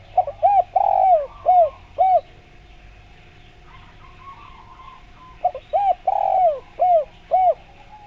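Spotted dove (tekukur) cooing: two phrases of five or six arching coos, each with a longer drawn-out note in the middle, the first phrase right at the start and the second about five seconds in.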